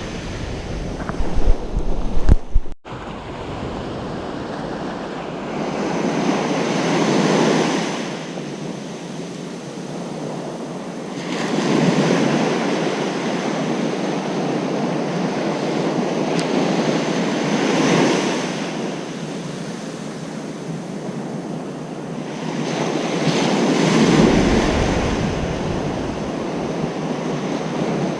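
Ocean surf breaking on a beach, the wash swelling and easing with a wave about every six seconds. Wind buffets the microphone with a deep rumble for the first few seconds, which cuts out suddenly.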